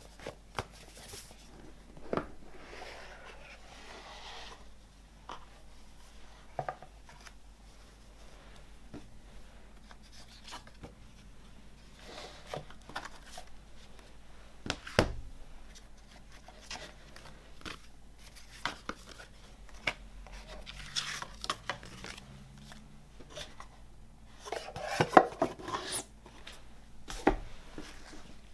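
Hands handling an album box set and its packaging: scattered taps and clicks with a few spells of rustling, the loudest cluster about three seconds before the end.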